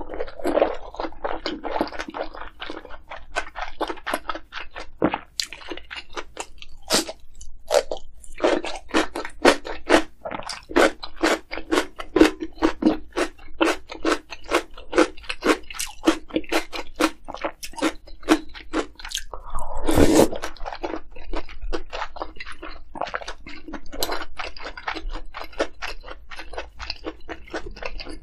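Close-miked chewing of crunchy kimchi: quick, crisp crunches, two or three a second, throughout. There is one louder, longer mouth sound about twenty seconds in.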